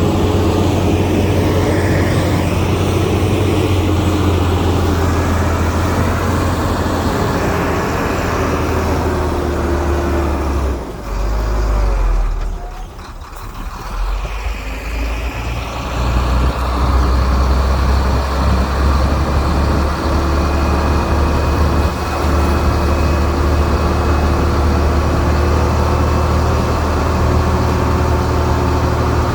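Heavy diesel earthmoving machinery running with a steady low rumble. The engine note drops away for a few seconds around the middle, then comes back up.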